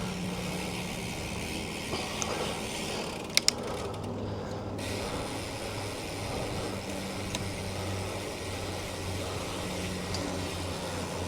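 Steady street traffic and road noise heard from a moving bicycle, with a low engine hum. Two sharp clicks come close together about three and a half seconds in.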